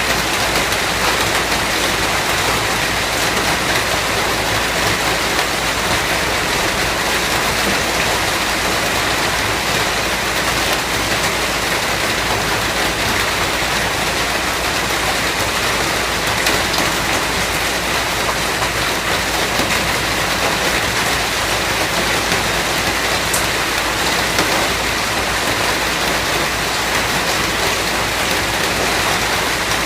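Steady rain falling, an even hiss of drops with no breaks or swells.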